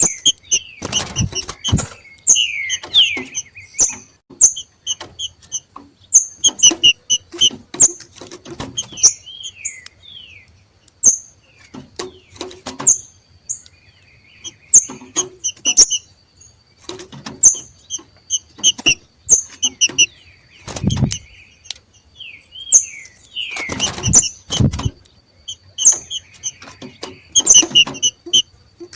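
Green-winged saltators (trinca-ferro) giving the 'macheado' call, the excited calling tied to the breeding season: clusters of short, high chips and quick falling notes, repeated again and again. A few dull thumps come through, one about a second in and others near the end.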